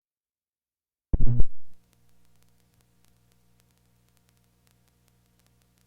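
A short, loud, low thump about a second in, like a microphone or recorder being bumped, followed by a faint steady electrical hum.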